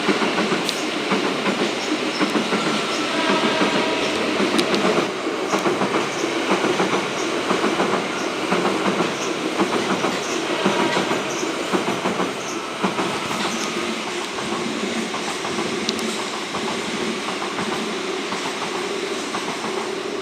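Train crossing a rail bridge: a steady rolling rumble with wheels clicking over the rail joints, and faint squealing tones near the start.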